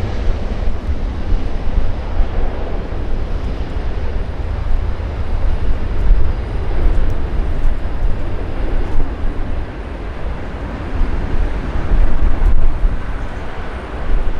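Aircraft engines rumbling: a heavy, noisy low roar that swells and fades, loudest a little before the end.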